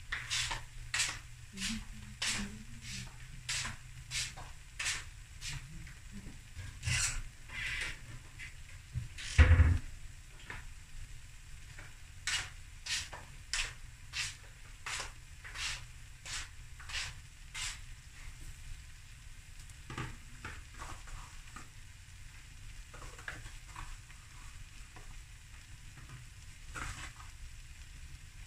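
Sausage fried rice sizzling in a pan on the heat, with irregular sharp pops and crackles about once or twice a second. One louder thump comes about a third of the way in.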